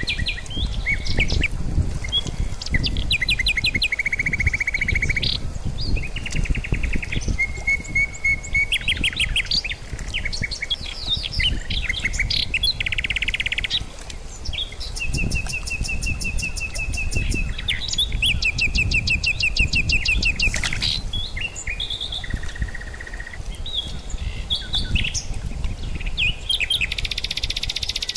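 Several songbirds singing and chirping in turn, with rapid trills and quickly repeated notes, over a low rushing noise from the fast-flowing river.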